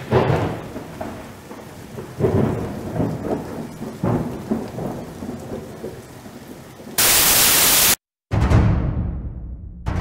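Thunder rumbling over steady rain, swelling three times about two seconds apart. Near the end a second-long burst of loud static cuts off abruptly into silence, followed by a heavy booming hit that dies away.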